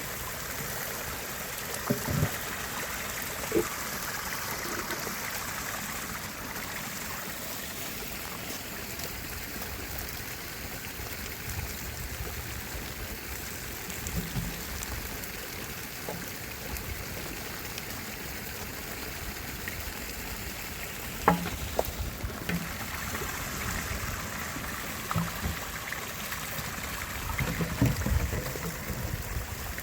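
Stream water running steadily, with a few scattered knocks and clicks, most of them in the second half.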